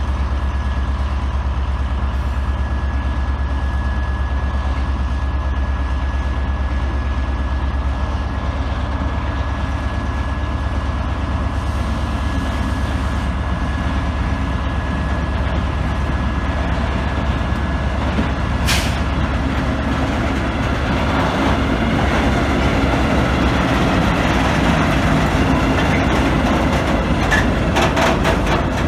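A train at a station: a steady low engine rumble with a thin high whine over it. About two-thirds of the way through there is a brief sharp sound, and after that the noise grows fuller and a little louder as the train gets moving, with a run of clicks near the end.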